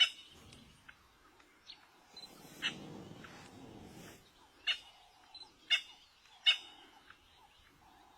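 Short, sharp bird calls, about five of them a second or so apart, with a soft rushing noise between about two and four seconds in.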